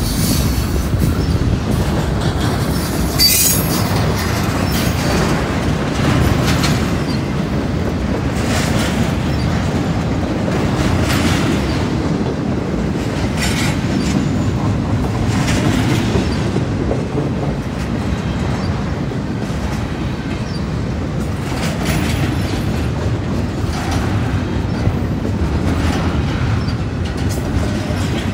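CSX double-stack intermodal freight cars rolling past at low speed: a steady rumble of steel wheels on rail, broken by irregular sharp wheel clacks.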